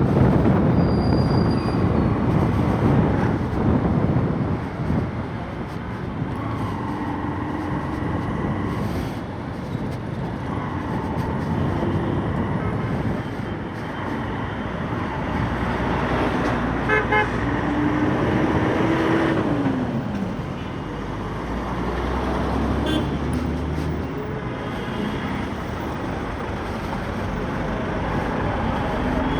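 Road traffic heard from a moving motorcycle: a steady engine and road rumble, with vehicle horns honking several times in short bursts.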